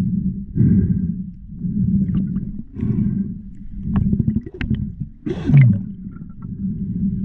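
Water rumbling and sloshing around an underwater action camera, in low swells about once a second, with scattered clicks and a louder gurgling rush about five and a half seconds in.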